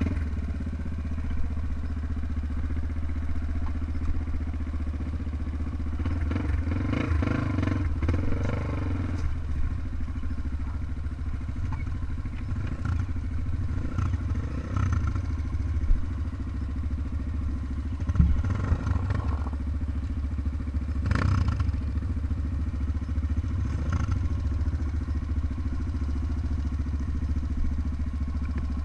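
Trail motorcycle engine running steadily, with several short louder surges.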